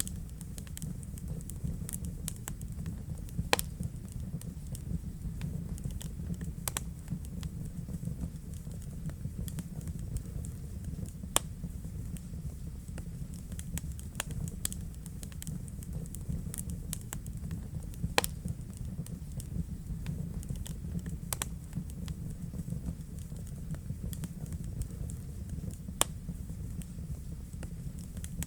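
Wood fire in a fireplace crackling: a steady low rumble with frequent small sharp crackles and an occasional louder pop every few seconds.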